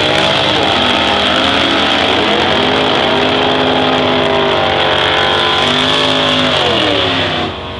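Drag-racing car engines revving hard, the pitch rising and falling several times. The sound drops off abruptly near the end.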